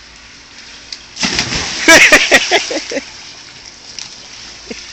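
A person jumping into water for a cannonball: a big splash starts about a second in, followed by water sloshing, with a voice calling out over the loudest part of the splash.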